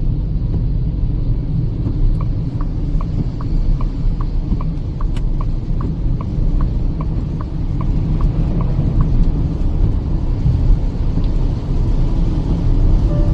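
Steady low road and engine rumble inside the cabin of a Kia Seltos petrol car at highway speed. From about two seconds in to about nine seconds in, an indicator ticks evenly about two and a half times a second, then stops.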